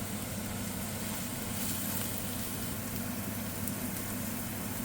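Mushrooms sizzling steadily in hot oil with onions in a frying pan, over a steady low hum.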